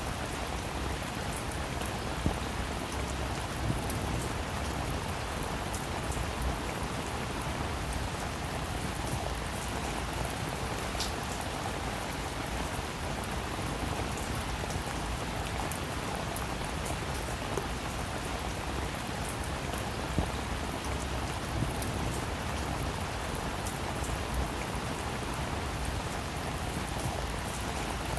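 Steady rain falling, with scattered individual drops ticking on a surface and a few louder drips now and then.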